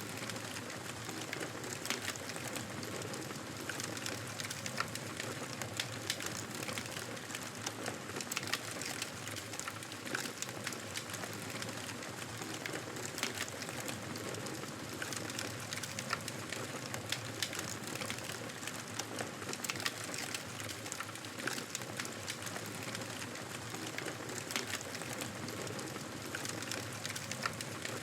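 Fire crackling in a fireplace: frequent small snaps and pops over a steady hiss.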